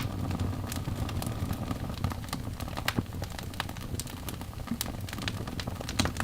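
Log fire crackling: scattered sharp pops and snaps over a low steady rumble.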